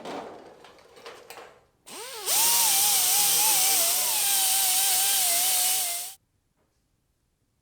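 A few light clinks of handling, then a handheld power tool spins up with a rising whine and runs steadily for about four seconds, its pitch wavering slightly, before stopping abruptly.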